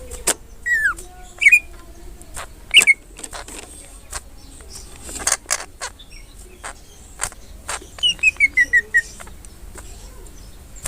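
Greater green leafbird (cucak ijo) singing: a downward-sliding whistle, a few sharp chirps, and near the end a quick run of about seven falling notes. Sharp clicks are scattered in between.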